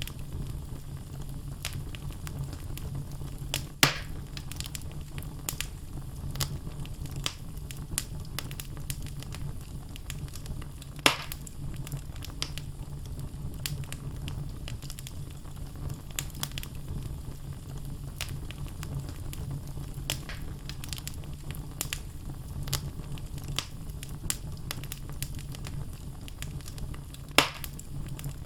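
Wood logs burning in a fireplace: frequent small crackles over a steady low rumble, with three louder pops, about 4, 11 and 27 seconds in.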